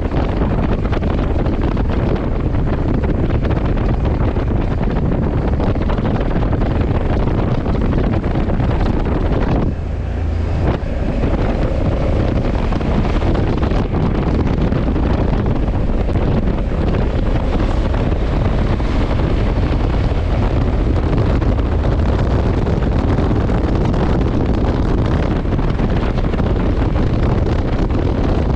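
Heavy wind noise on the camera microphone from riding at speed on a Honda CRF1100 Africa Twin motorcycle, with the bike's engine running underneath. There is a short lull about ten seconds in.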